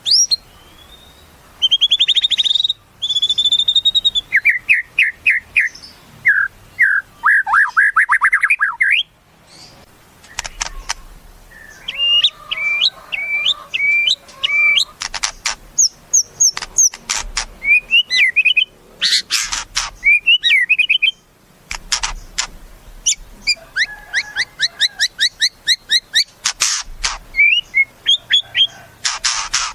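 White-rumped shama (murai batu) singing a varied song of clear whistled phrases and fast rising trills, broken by several short harsh, rasping notes.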